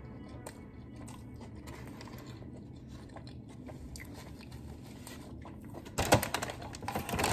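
Close-up mouth sounds of someone chewing a chicken biscuit, quiet with faint small clicks. About six seconds in, loud crackling and rustling starts.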